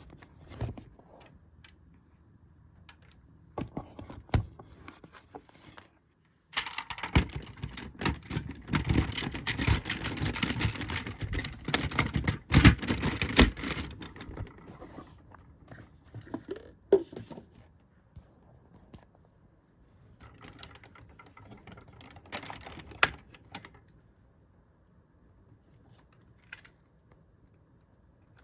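Hard plastic parts of a DX Wild Tousai Dodeka King combining robot toy being handled and snapped together: clicking and rattling. It is sparse at first, turns into a busy stretch of rattling clicks from about a quarter of the way in to halfway, then falls back to scattered clicks.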